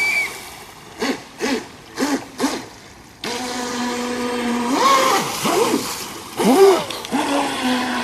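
RC boat motor whining in four quick throttle blips, then held at a steady hum from about three seconds in, with a few short rising and falling surges as the throttle is worked, over splashing water.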